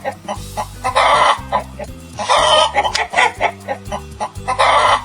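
Chicken clucking and cackling in three loud bursts about two seconds apart, with short clucks between them, over cheerful background music.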